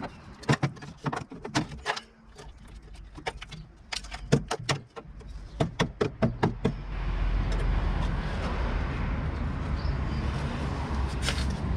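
Repeated sharp metallic knocks on the Subaru Impreza's rusty rear bodywork as it is struck and probed for rotten metal, several knocks a second. About seven seconds in, a steady low noise sets in and takes over.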